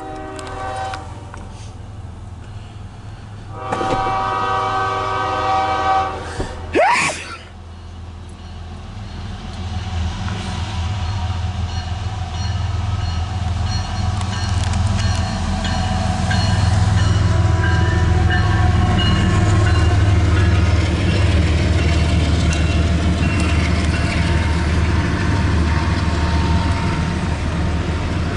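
CSX intermodal freight train's diesel locomotive horn sounding a short blast, then a longer blast of a few seconds, followed by a brief rising squeal. The low rumble of the locomotives and freight cars then builds steadily louder as the train arrives and passes.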